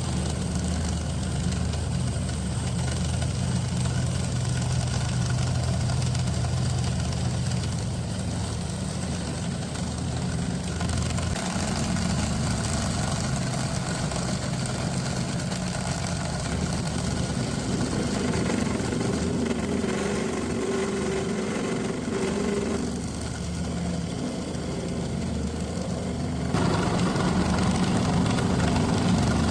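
Workshop machine motor running steadily with a low hum, its sound shifting a few times and stepping louder about three seconds before the end.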